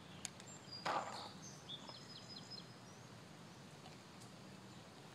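Quiet outdoor ambience with small birds chirping faintly in short high notes, and a brief scuff about a second in.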